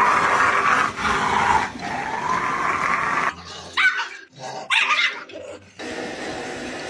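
A dog vocalizing: a noisy, hoarse stretch for the first few seconds, then two short high-pitched barks or yelps about a second apart.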